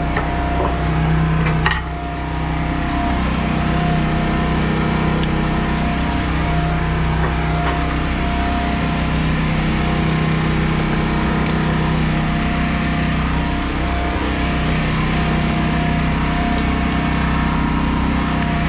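Diesel engine idling steadily, with a single sharp click nearly two seconds in.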